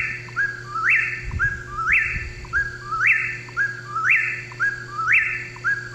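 Eastern whip-poor-will singing its whistled "whip-poor-will" song over and over, about one phrase a second, each phrase ending in a sharp upward sweep.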